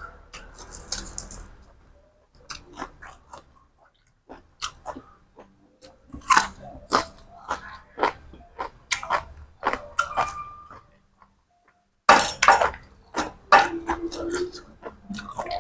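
A person chewing and crunching crisp food close to the microphone, in irregular bursts of sharp crunches.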